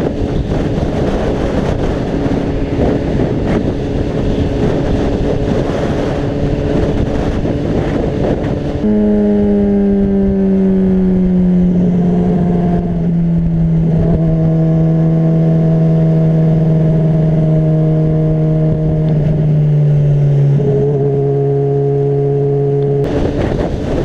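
Honda CBR600RR's inline-four engine running on the road with wind buffeting the microphone. About nine seconds in, the wind noise drops away and the engine note comes through clearly, its pitch sagging slowly and stepping down a couple of times. The wind noise comes back near the end.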